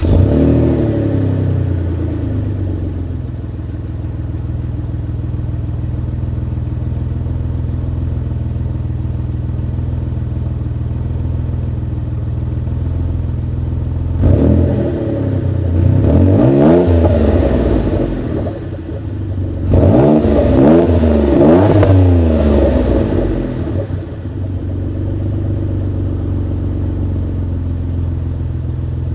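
Mitsubishi GTO twin-turbo's 3.0-litre V6 running through a stainless steel exhaust with the catalytic converter removed. Just after starting, its idle settles down over the first few seconds and then holds steady. About halfway in there are two bursts of quick free revs, each climbing and dropping back, before it returns to an even idle.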